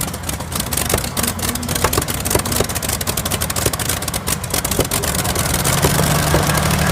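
Modified pulling tractor's engine running hard under full throttle during a pull: a loud, dense engine din shot through with rapid crackling pops.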